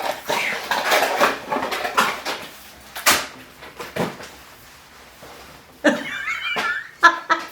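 Steering-column parts being handled and fitted by hand: rustling and clattering, with a sharp click about three seconds in and another near four seconds. A short wavering high sound follows around six seconds, then a few clicks near the end.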